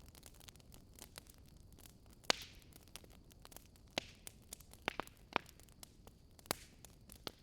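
Wood fire crackling in a fireplace: irregular sharp pops and snaps, the loudest a little over two seconds in with a brief hiss after it, over a faint steady low noise.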